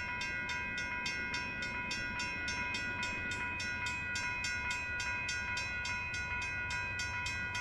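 Railroad grade-crossing bell ringing in a fast, even rhythm of about four strikes a second, over a low rumble.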